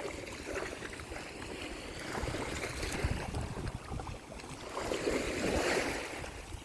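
Ocean surf washing on the shore, an even rushing noise with a wave swelling up and falling away about five seconds in.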